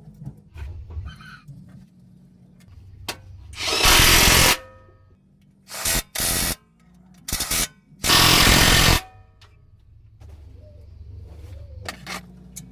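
Compressed-air workshop tool fired in short bursts: two rushing blasts of about a second each and three brief ones in between.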